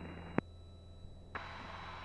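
Aviation VHF radio over the intercom: a transmission ends with a click, leaving a low steady hum. About a second and a half in, a short burst of open-carrier hiss comes on, as if a microphone were keyed without speech, and it cuts off with a click.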